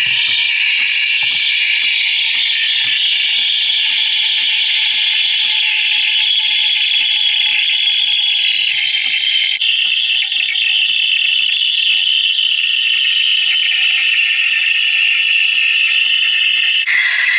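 Home espresso machine running: a loud, steady hiss with a regular clicking about two to three times a second, the hiss shifting in tone about halfway through and again near the end.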